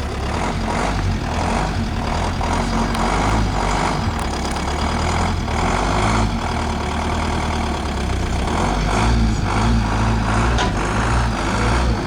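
KrAZ heavy truck's diesel engine running, a steady low rumble with noise above it, swelling a little about three-quarters of the way through.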